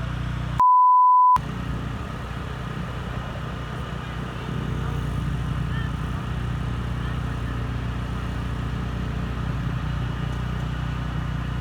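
Small dirt bike engine running steadily, interrupted about half a second in by a single censor bleep, a pure steady beep under a second long that blanks out all other sound.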